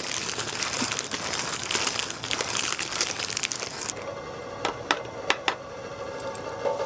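Heavy rain drumming on a tent's fabric, a dense crackling patter. About four seconds in it cuts off, leaving a quieter steady hum with a few sharp clicks.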